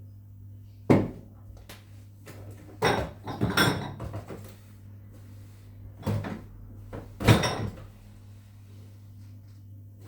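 Household knocks and clatter from things being handled during cleaning: a sharp bang about a second in, a cluster of knocks between three and four seconds, and two more near six and seven seconds. A steady low hum runs underneath.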